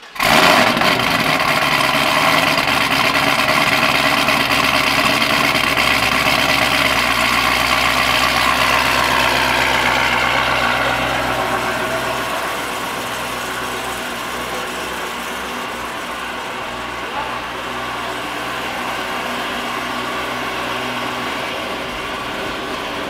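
Cadillac CTS-V's supercharged 6.2-litre V8 idling loudly just after starting. About eleven seconds in the fast idle eases down to a lower, quieter idle.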